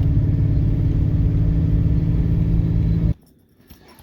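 Steady low drone of a pickup truck's engine and road noise heard from inside the cab while driving. It cuts off abruptly about three seconds in, leaving a few faint clicks.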